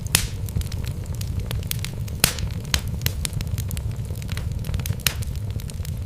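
Wood fire burning in a fireplace: logs crackling with scattered sharp pops over a steady low rumble. The loudest pops come right at the start, about two seconds in and about five seconds in.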